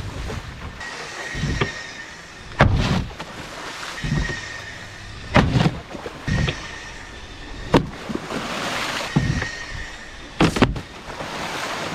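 Wakeboard riding on the water: a steady rush of water and wind broken by a series of sharp thumps and knocks, with a faint high whine that comes and goes.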